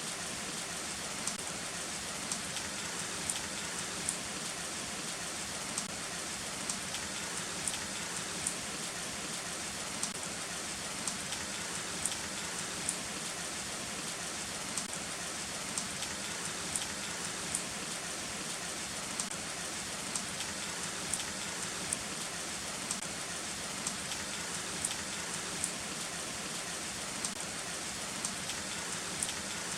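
Heavy rain falling steadily, an even hiss with separate drops ticking sharply on a surface every second or so.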